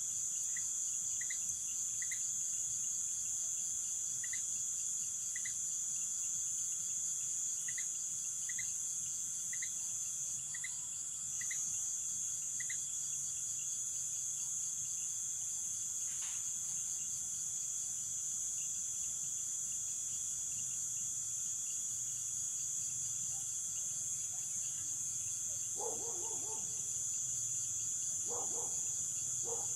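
Nighttime Amazon rainforest insect chorus of crickets and katydids: a steady high, fast-pulsing trill with a second steady tone beneath it. Short chirps repeat irregularly through the first half, and a few lower calls come in near the end.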